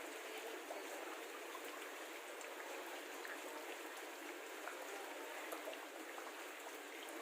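Steady, faint water noise with a light patter of small drops or splashes.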